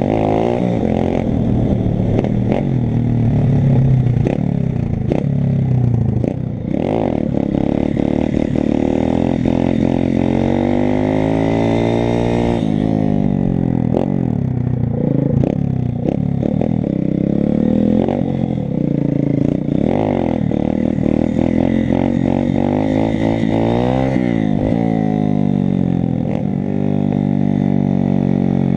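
125 cc pit bike's single-cylinder engine being ridden hard, its pitch climbing and dropping again and again with the throttle.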